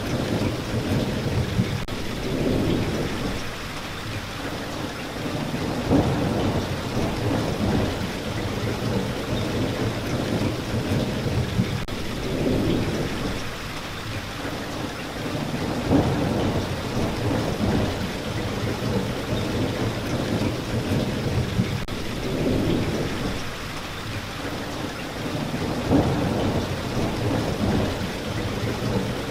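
Steady heavy rain falling, with low rolling rumbles of thunder that swell and fade several times.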